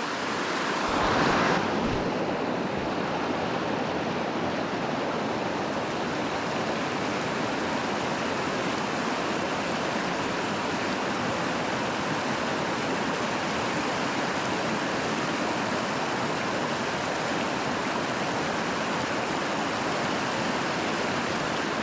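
Small creek and waterfall rushing steadily, an even wash of moving water, with a brief louder swell about a second in.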